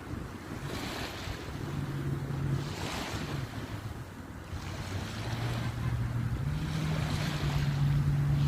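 Surf breaking on a beach in repeated swells, with wind buffeting the microphone. A steady low hum, like a distant motor, comes in briefly and then holds through the second half.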